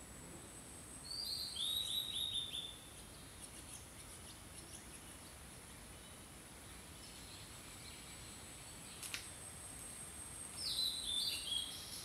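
A songbird singing two short phrases of quick, falling notes, one about a second in and another near the end, over a thin, steady high-pitched tone and a soft background hiss.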